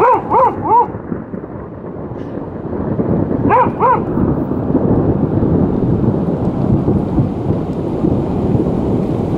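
Thunder rumbling steadily through heavy rain. A border collie barks three quick times at the start and twice more about three and a half seconds in.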